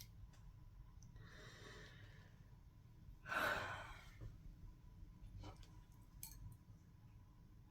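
A person's breath drawn in, then a long sigh breathed out about three seconds in, with a few faint clicks afterwards.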